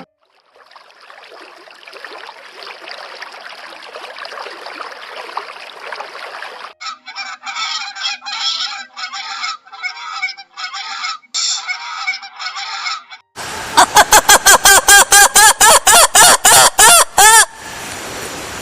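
Animal calls: after a stretch of noisy sound and choppy calls, a loud, rapid run of pitched calls, about four a second, starts about thirteen seconds in and lasts some four seconds.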